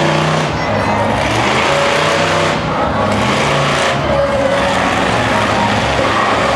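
Monster truck engine running hard and revving, its pitch rising and falling several times.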